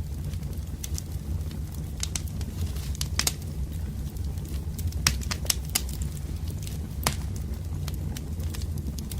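Wood fire of burning logs crackling, with a steady low rumble and irregular sharp pops and snaps scattered throughout, the loudest about five seconds in.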